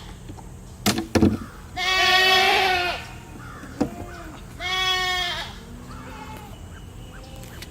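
Goats bleating: two long, wavering bleats of about a second each, one about two seconds in and one about five seconds in. A short knock sounds about a second in.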